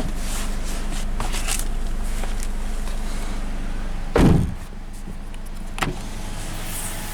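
A Scion FR-S's 2.0-litre flat-four boxer engine idling steadily while it warms up. About four seconds in, a car door shuts with a heavy thump, and the engine is quieter afterwards.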